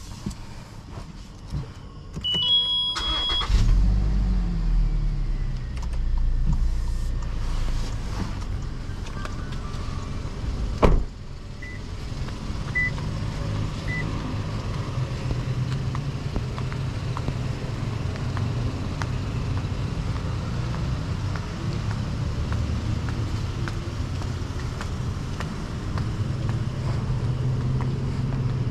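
Toyota Fortuner's 2.7-litre naturally aspirated petrol engine starting: a few electronic beeps, then the engine catches about three seconds in with a brief flare and settles to a steady run. A sharp clunk comes near eleven seconds, followed by three short beeps, then a steady engine hum.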